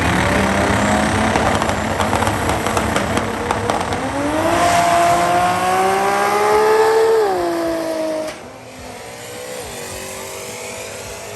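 Drag race car accelerating hard down the strip: loud, crackling engine noise at first, then the engine note climbing steadily in pitch, dipping briefly at a gear change, and falling away sharply near the end as the car runs off into the distance.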